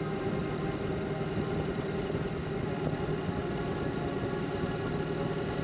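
Ducati Multistrada 950's 937 cc L-twin engine running at steady low revs as the motorcycle rolls slowly downhill, with road and wind noise underneath.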